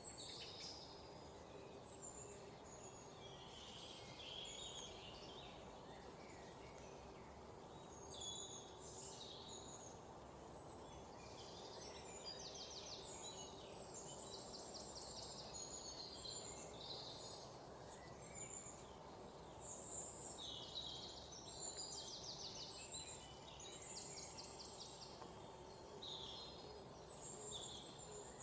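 Several wild birds chirping and calling, with a few rapid trills of repeated notes, over a steady low background hiss.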